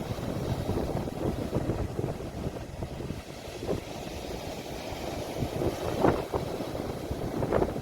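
Sea waves washing, recorded on a phone, with wind rumbling on the microphone. A few brief louder surges of water stand out in the second half.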